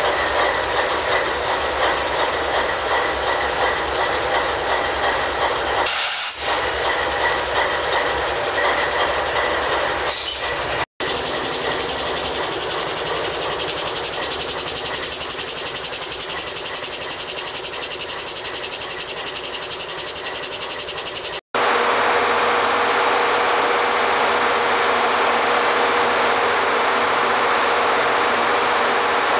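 Canadian Pacific Holiday Train's diesel locomotive and train, making a loud, steady mechanical noise with a few held tones in it. The noise breaks off for an instant twice.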